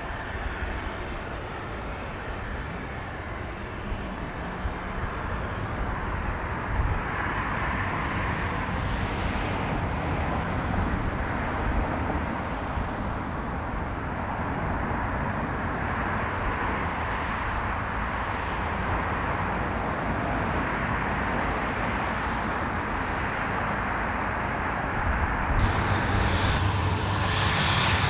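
Aircraft engine noise on an airfield: a steady rushing sound that grows louder near the end, when a high whine comes in.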